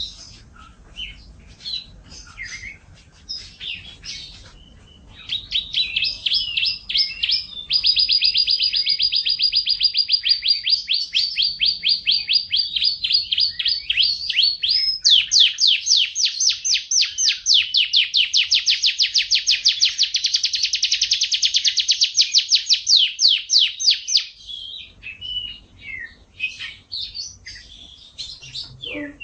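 A songbird singing: scattered chirps, then two long rapid trills of repeated notes lasting several seconds each, the second pitched higher and louder, then scattered chirps again.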